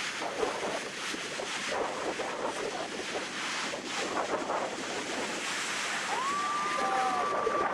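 Ocean surf washing onto a beach, with wind buffeting the microphone. Near the end, a thin whistle-like tone rises and then holds for about a second and a half.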